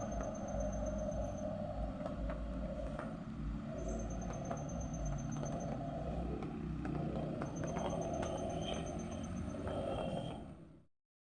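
Heavy truck engine running under load with a steady low rumble, with a faint high pulsed chirp heard three times. The sound fades out near the end.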